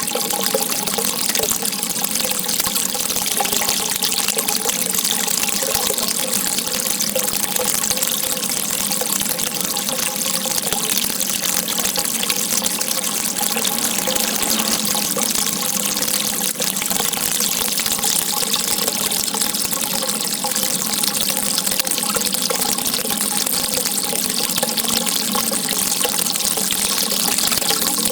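Water gushing in a steady, unbroken rush, a constant hiss with no pauses or changes.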